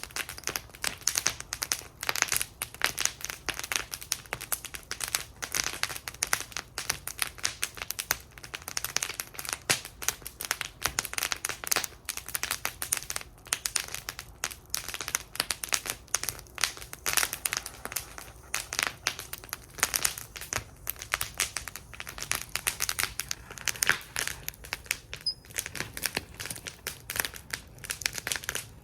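Wood fire burning in a fire bowl, crackling and popping with dense irregular snaps.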